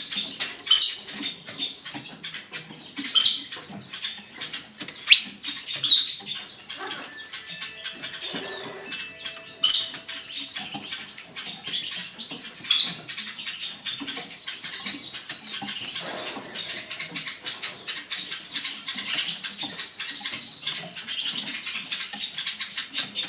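Many small cage birds chirping at once: a dense, unbroken chatter of high calls, with louder sharp chirps standing out every few seconds.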